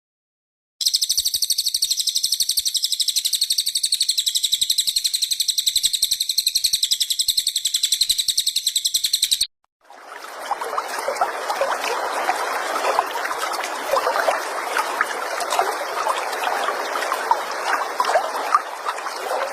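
Songbird recordings cut together: first a steady, very rapid high-pitched trill held for about eight seconds, then, after a brief silent break, a dense, lower twittering chatter of many quick notes.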